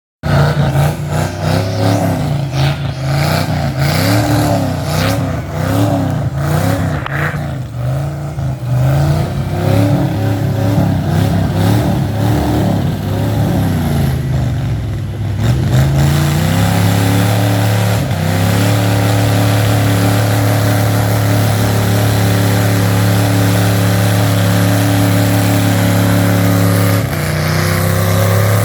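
Off-road vehicle engine revving up and down repeatedly, then held at high, steady revs for about ten seconds before dropping back near the end.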